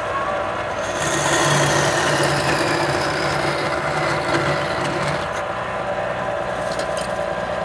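Wood lathe running with a steady hum. From about a second in until about five seconds, a turning tool cuts into the spinning wood, adding a louder hissing scrape.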